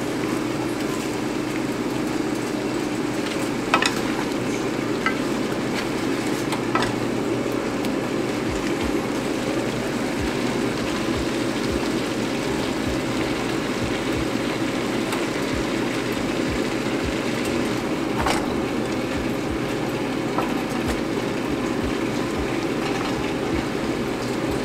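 Meat, vegetables, shredded cabbage and rice noodles sizzling steadily as they are stir-fried in a wok for pancit bihon, with a few sharp clicks of the spatula against the pan.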